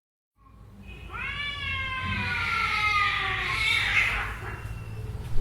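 A cat's single long, drawn-out scream: a quick rise in pitch, then a slow downward slide held for about three seconds before it fades.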